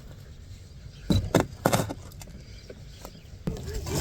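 Several short metallic clinks and knocks, bunched together about a second in, as small metal parts or tools are handled, over a low steady background hum.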